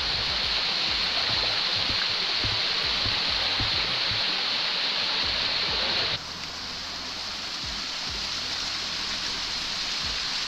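Waterfall: a steady rush of falling water. About six seconds in it abruptly becomes quieter and duller.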